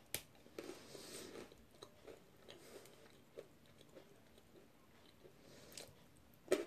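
A person biting and chewing a thin crunchy biscuit stick: faint, irregular crunches, with one louder, sharper crunch near the end.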